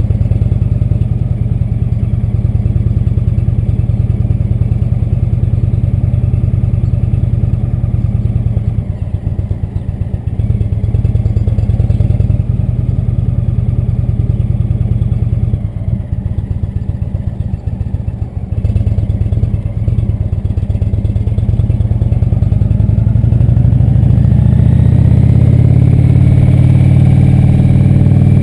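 Indian Chief Vintage motorcycle's V-twin engine running under way. The engine eases off briefly twice, then accelerates with a rising pitch over the last several seconds.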